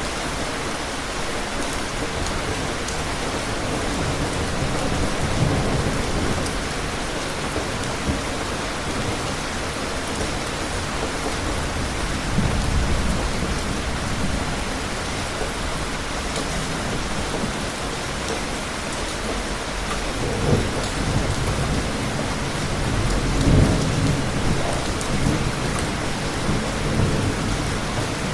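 Steady heavy rain with several low rolls of thunder, a few seconds in, near the middle, and more toward the end.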